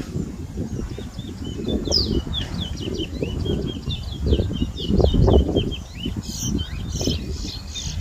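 Caged towa-towa (chestnut-bellied seed finch) singing a fast, unbroken run of short chirping notes in a song competition, starting about two seconds in, over a low background rumble.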